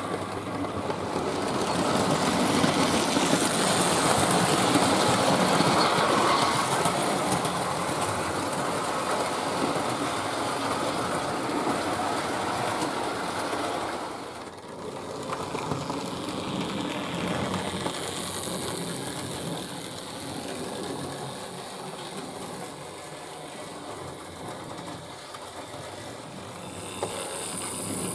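Hornby Dublo 3-rail model tank locomotive running on its track, its motor whirring and its wheels rattling over the rails. It grows louder a couple of seconds in, drops sharply for a moment about halfway through, then runs on quieter.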